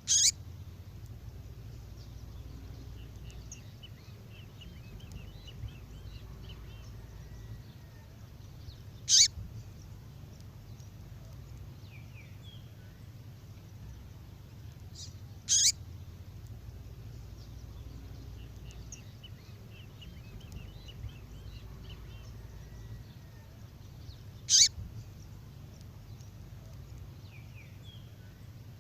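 A female songbird's call, given as four short, sharp, high notes spaced several seconds apart, with faint twittering between them over a low steady hum.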